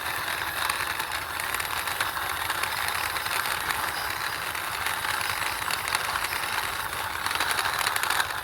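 Toy police car pushed along by hand, its small plastic wheels rolling with a steady rattle.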